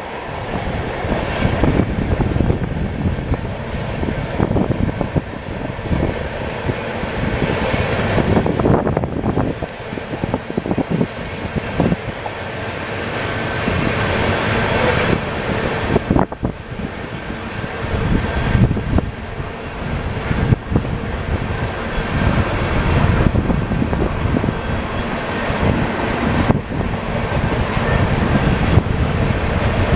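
BNSF freight train rolling past, with diesel locomotive engine noise and the rumble and clatter of railcars on the rails.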